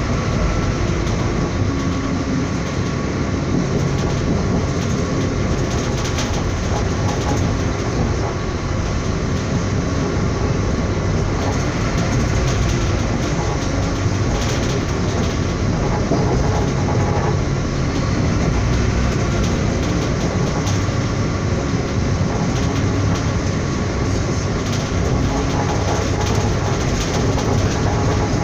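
Passenger train running at speed, heard from inside the carriage: a steady rumble of wheels on the rails, with a few faint clicks.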